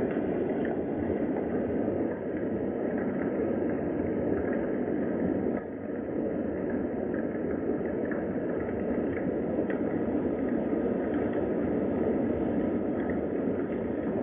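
Steady rain, a continuous even hiss with scattered faint ticks of drops.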